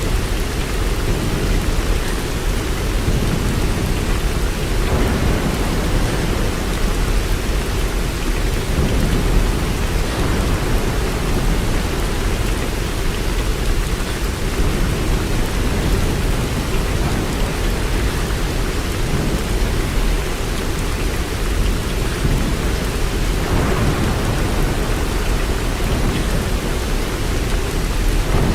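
Steady rain, a continuous even hiss with a deep low rumble beneath it that does not let up.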